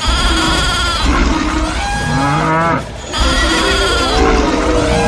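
Overlapping farm-animal calls, bleats and moos, played as a sound-effect track that repeats in a loop about every three seconds over a low rumble.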